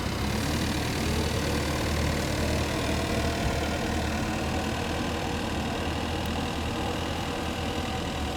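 Yale GLC050 LP-gas forklift engine running steadily.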